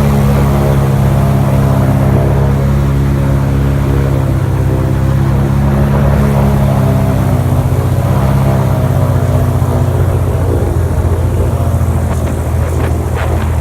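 Boat motor running steadily, a loud low drone with slight shifts in pitch, with a few faint clicks near the end.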